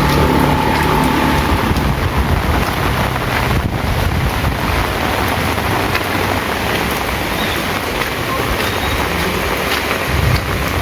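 Heavy rain pouring down in a loud, steady, dense hiss, with a low rumble underneath at the start and again near the end.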